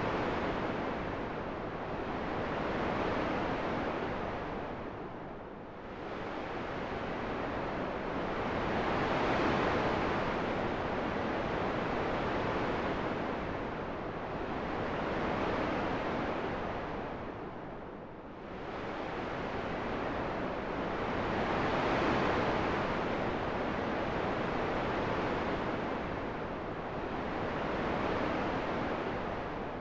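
Wind blowing as an even rushing noise that swells and eases in slow gusts, about every six seconds.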